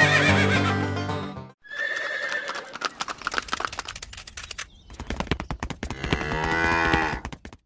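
Background music that stops about a second and a half in, followed by horse sounds: hooves clip-clopping, then a long whinny near the end.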